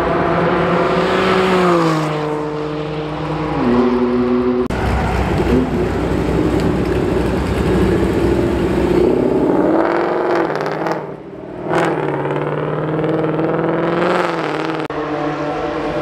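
Sports car engines in a run of short clips: first an engine note falling away as a car goes by, then an engine pulling hard with its note rising, then engines running steadily with another short rise near the end.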